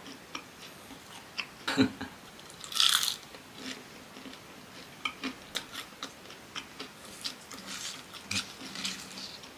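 Close-miked chewing of fried cassava: a run of crisp crunches and small mouth clicks, with a louder crunch just under two seconds in and a short hissing burst about three seconds in.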